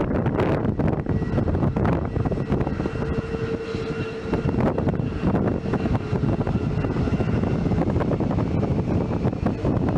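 Aircraft engines running steadily as a plane moves on or near the runway, a continuous roar with a faint whine over it, and wind buffeting the microphone.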